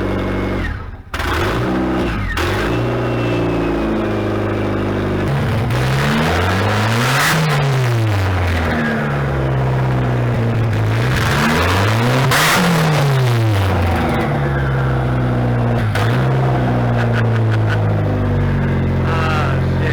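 Mazdaspeed Protege's turbocharged FS-DET four-cylinder engine running pretty loud with no downpipe fitted, so the exhaust dumps straight out of the Garrett GT2876R turbo. It is revved up and let fall back twice, about six and about twelve seconds in, and settles back to a steady idle between the revs.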